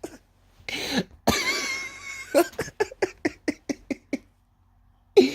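A man's non-speech vocal sounds, like coughing: a breathy burst, about a second of wavering high tone, then a quick run of short bursts.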